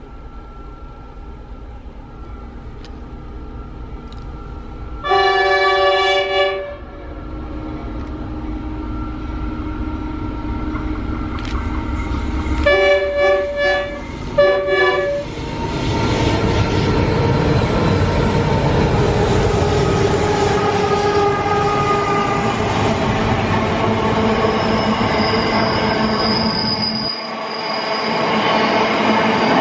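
Freight train hauled by NR class diesel locomotives: its chime horn sounds one long blast about five seconds in and two short blasts around thirteen to fifteen seconds. The locomotives then pass with a rising rumble of engines and wheels, followed by the steady rolling of empty flat wagons with some thin wheel squeal.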